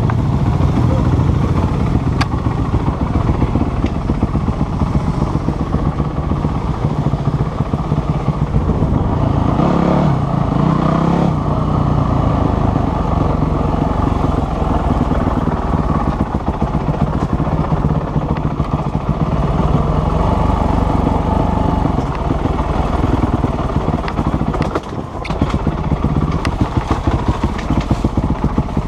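Dirt bike engine running under way, rising in pitch as it revs about ten seconds in and dipping briefly near the end.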